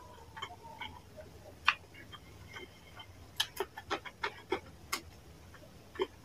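Close-miked wet chewing and lip smacks of a person eating a handful of rice and fish curry, a quick run of smacks from about three to five seconds in.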